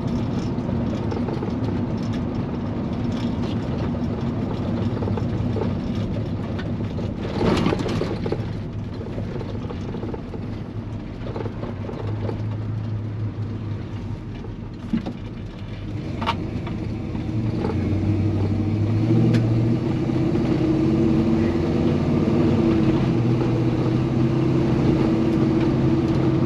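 Chevy C-10 pickup's engine running while the truck drives, heard from inside the cab, with a brief knock about seven and a half seconds in. Its note steps up and grows louder from about sixteen seconds in, as the truck speeds up. The engine is running rich, which the owner puts down to a carburetor that needs replacing.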